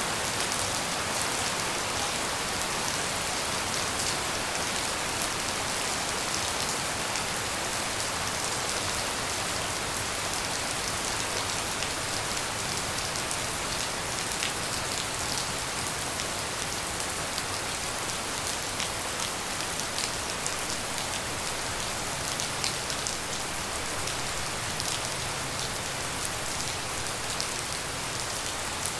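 Steady tropical rain falling on surfaces, a constant hiss dotted with many small drop ticks.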